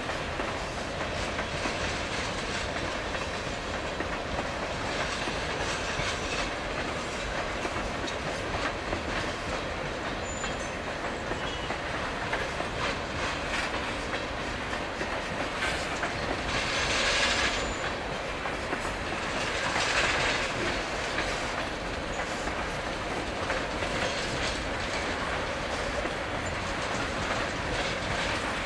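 A freight train of tank cars rolls past steadily, its wheels clattering over the rail joints. Two brief, louder rushes of high-pitched noise rise over the clatter about two-thirds of the way through.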